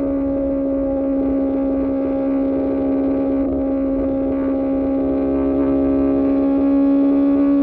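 QJMotor SRK600 inline-four engine through an Austin Racing exhaust, running at steady revs with a constant droning note. Its pitch and loudness rise slightly near the end.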